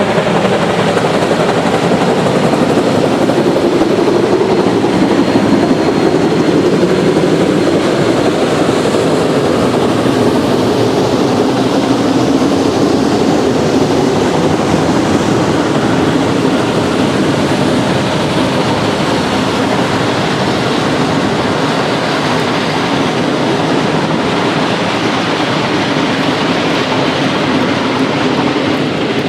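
Geared steam logging locomotive and its train running, a loud steady noise with no break, and a faint thin high tone in the first few seconds.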